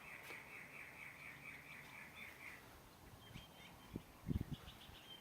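Faint, rapid high trill from a bird, about five pulses a second for some two and a half seconds, followed by a few short high chirps. A few low thumps about four seconds in.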